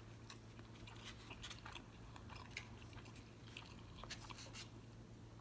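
A mouthful of steak street taco being chewed close to the microphone: faint, scattered wet smacks and clicks, over a low steady hum.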